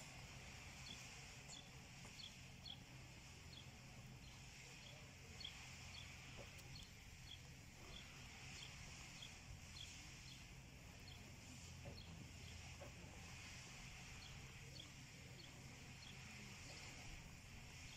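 Near silence with a low steady hum, and a small bird's faint high chirp repeating about once a second.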